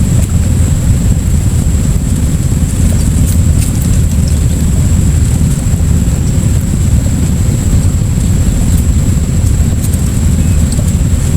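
Steady low rumble with a thin high-pitched whine held above it and a few faint clicks.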